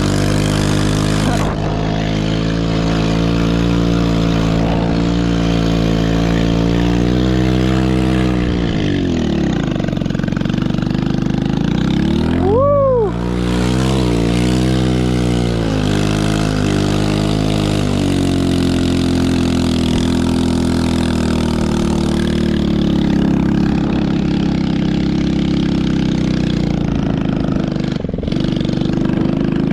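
Chinese 110cc ATV's small single-cylinder engine running under throttle. It drops in pitch as the throttle eases off about nine seconds in, revs back up sharply around twelve to thirteen seconds, then runs steadily.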